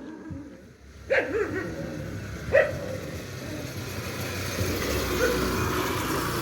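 A dog barking twice, short barks about a second apart, followed by a steady rushing noise.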